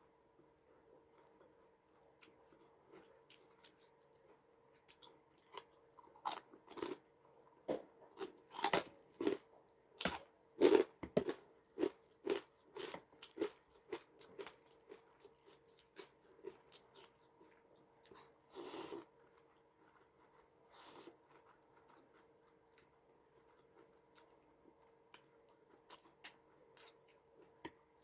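A person chewing crunchy food close to the microphone, a quick run of crunches in the middle, then two short breathy noises. A faint steady hum sits underneath.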